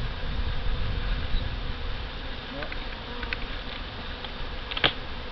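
Honey bees buzzing steadily in a busy cloud around an open hive, with a sharp click near the end.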